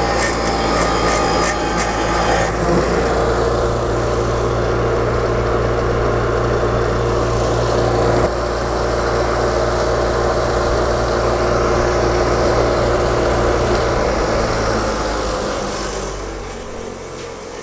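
A steady motor or engine running with a continuous drone, fading out over the last few seconds. Some clicking and scraping is mixed in at the start.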